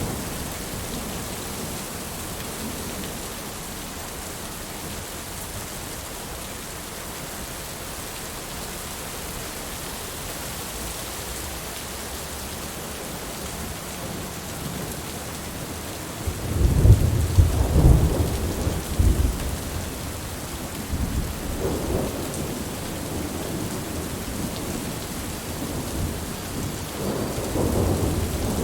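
Steady rain with rolling thunder. A long, loud rumble of thunder comes about two-thirds of the way in, a shorter one follows a few seconds later, and another builds near the end.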